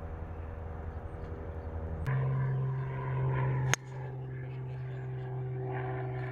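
A motor running with a steady hum. About two seconds in it shifts abruptly to a louder, slightly higher hum, and a single sharp click sounds a little before the middle.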